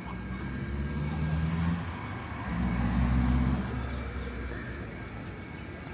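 Two motor vehicles passing one after the other, each engine's low hum swelling and fading, the second a little louder.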